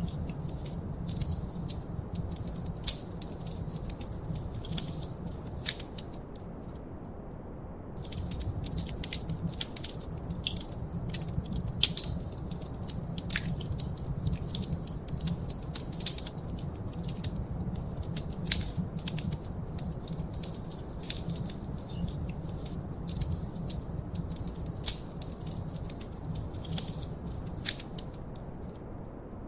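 Wood fire crackling in a fireplace: many sharp pops and snaps over a low steady rumble. The crackling drops out for about a second around seven seconds in.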